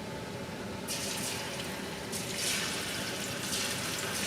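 Chicken pieces going into very hot deep-frying oil: the oil starts to hiss and sizzle suddenly about a second in, and surges again twice as more pieces go in.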